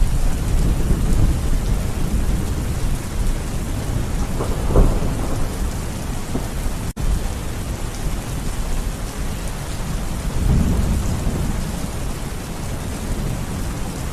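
Steady heavy rain with thunder rumbling, the low rumble swelling about five seconds in and again near eleven seconds. The sound drops out for an instant about seven seconds in.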